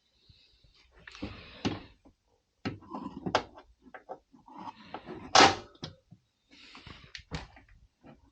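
Irregular clicks, knocks and rustling of parts and tools being handled while the washing machine's worn shock absorbers are swapped for new ones, with one louder knock about five seconds in.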